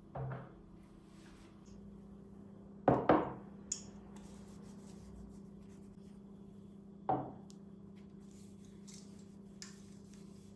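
A few short knocks and clinks of household items being handled and set down, the loudest a double knock about three seconds in, over a steady low hum.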